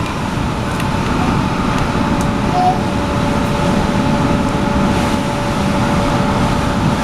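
MTR K-Train running between stations, heard from inside the car: a steady rumble of wheels on rail with a constant thin tone over it.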